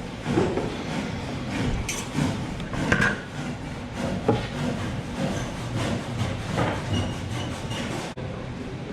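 Hand-tool woodworking: tools knocking and scraping on wood in irregular strokes, with a few sharper knocks, and an abrupt change in the sound near the end.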